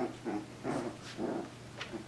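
Coton de Tulear puppies play-fighting in a pile, making a string of short, soft growls, with a light click near the end.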